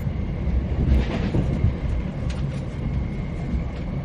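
Inside a moving RegioSwinger diesel railcar: a steady low rumble of the running train, with a few short clicks and knocks along the way.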